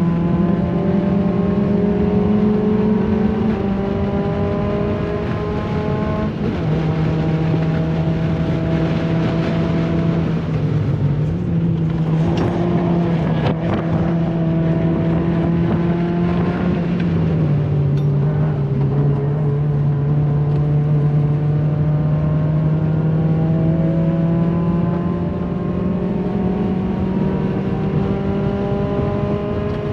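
2008 Honda Fit Sport's 1.5-litre four-cylinder engine with the muffler removed, heard from inside the cabin under hard driving on track: the revs climb steadily through each gear and drop back at several upshifts. A stretch of rougher tyre and road noise comes about halfway through.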